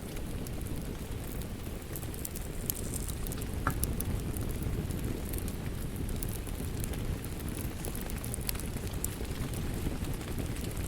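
Wood fire crackling, with scattered sharp pops, over a steady wash of rain.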